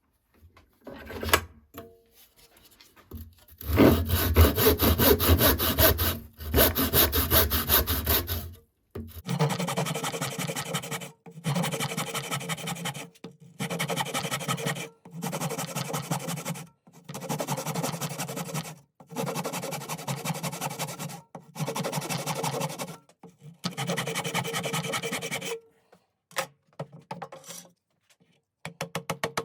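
A hand tool scraping along a wooden hatchet handle in long, even strokes, about eight of them each lasting one and a half to two seconds, after a longer, louder stretch early on: the handle being shaped.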